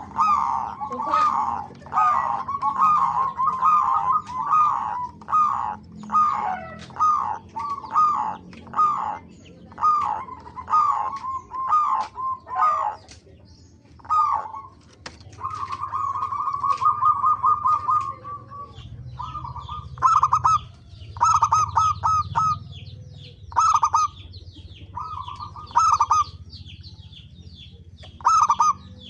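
Zebra doves (perkutut) cooing in repeated rapid, rolling phrases, crowded together at first and then in separate bursts with a longer trill in the middle, with high chirps from other small birds above them.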